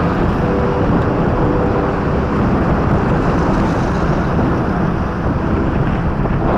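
Wind rushing over the microphone of a moving motorcycle, with a faint steady engine hum beneath.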